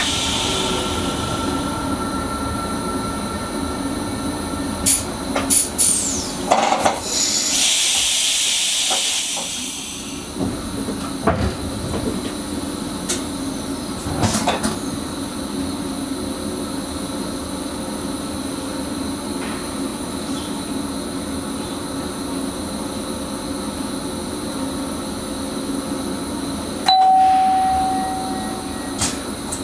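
Electric Sprinter train running, heard from the driver's cab: a steady hum with clicks from the rails. There are a few seconds of high rushing hiss about a quarter of the way in, and a short steady electronic beep near the end.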